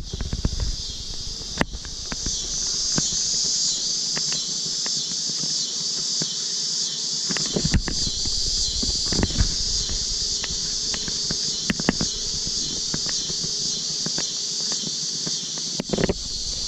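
Steady high-pitched insect chorus, with a few scattered clicks and knocks.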